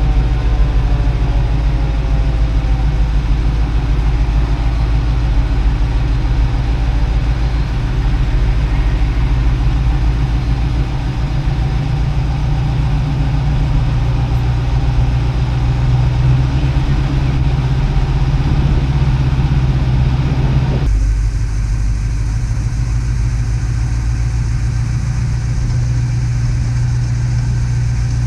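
Engine of a 1955 Chevrolet truck running steadily at low parade speed, a constant low drone. About twenty seconds in, the sound abruptly turns duller as its higher part drops away.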